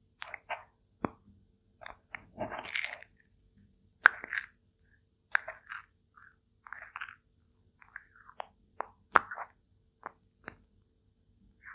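A turtle biting and crunching food: irregular crunches and sharp clicks.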